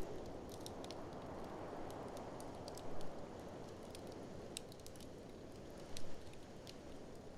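Wood fire crackling with scattered sharp pops over a steady low rush of blizzard wind, with a brief louder surge about every three seconds.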